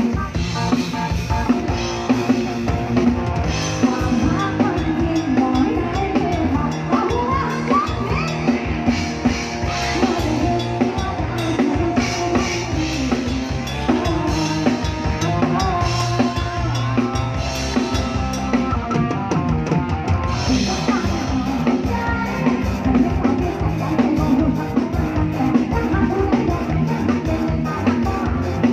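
Live band music with a drum kit keeping a steady beat under a melodic lead line.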